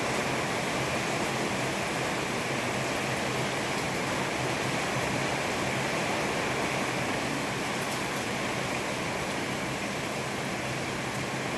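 Rain falling steadily, an even wash of noise with a few faint ticks of drops.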